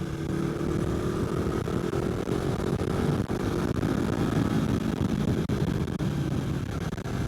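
Motorcycle engine running steadily, its pitch rising slightly over the first couple of seconds.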